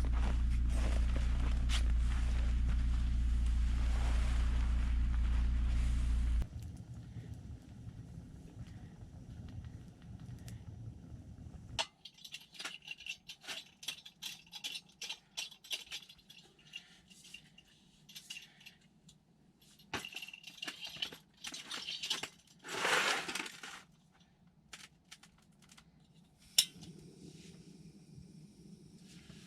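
A steady low hum that drops off about six seconds in, followed by scattered small clinks, scrapes and clicks of gear being handled, with a sharp click near the end.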